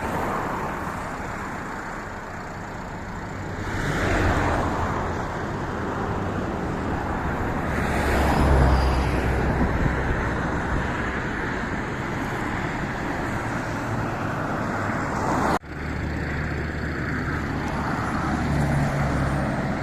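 Road traffic noise on a highway: a steady rush of tyres and engines that swells louder about four and eight seconds in. There is a sudden brief break about three quarters of the way through.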